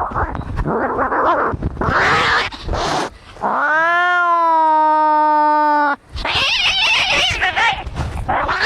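Cats fighting: harsh hissing and snarling, then one long yowl that rises and holds for about two and a half seconds before cutting off, then more hissing and snarling.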